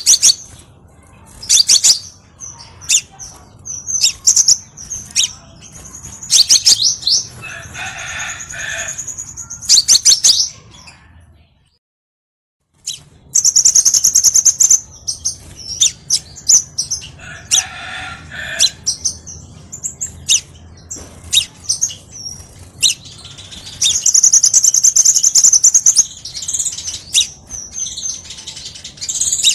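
Crimson sunbird song: rapid, high-pitched chirps and trills, repeated over and over, breaking off into silence for about a second near the middle.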